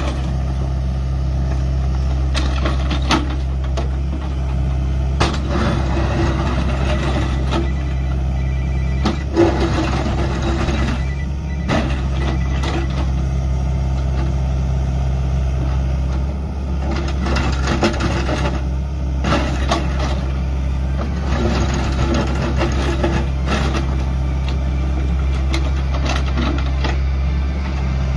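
LOVOL FR60E2-H excavator's 3-litre Yanmar diesel engine running steadily, with irregular knocks and clatter from the machine over it.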